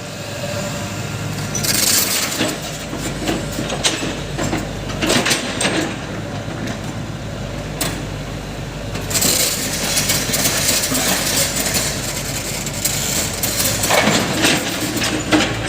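Backhoe loader's diesel engine running steadily, with scattered metallic clanks and knocks.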